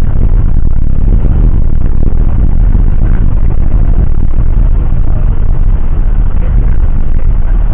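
Loud, steady rumble of a jet airliner's engines and airflow, heard from inside the cabin.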